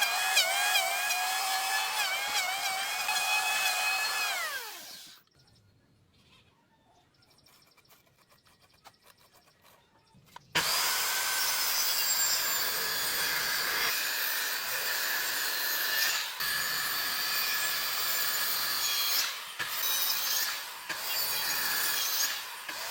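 A power tool working wood: its motor whines steadily, then is switched off about five seconds in and spins down with a falling pitch. After a few seconds of near quiet it starts again abruptly and runs on, its sound dipping briefly now and then as it bites into the wood.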